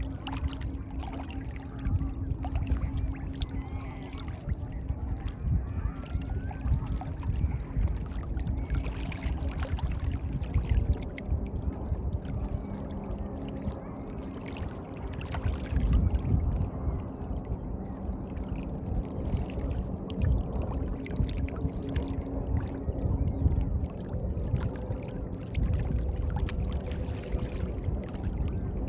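Moving water splashing and lapping continuously, with many small splashes over a low rumble.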